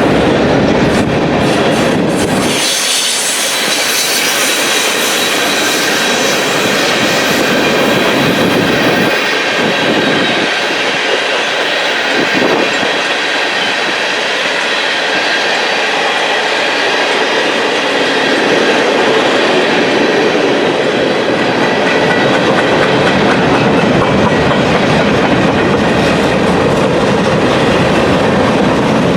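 Train cars rolling past, wheels clattering over the rail joints, with a thin high wheel squeal over the steady rumble.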